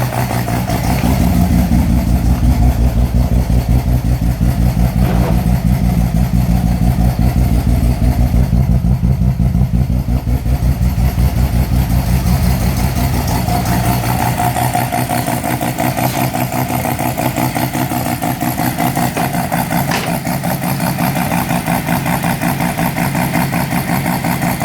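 Mazda 13B peripheral-port rotary engine running on its first startup, with a choppy, chunky idle. Its deep low note weakens about halfway through and the running gets a little quieter.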